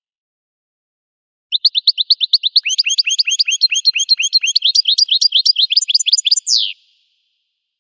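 Goldfinch singing one song phrase: a fast run of short chirping notes, about nine a second, beginning about a second and a half in and ending with a longer falling note near the seventh second.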